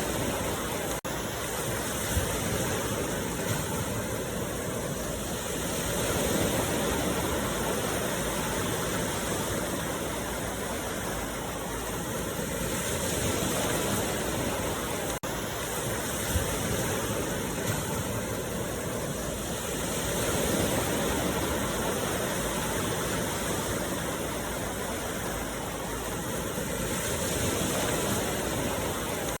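Ocean surf: waves breaking and washing ashore in a continuous rushing noise that swells and eases every several seconds. There are two brief dropouts, about a second in and about halfway through.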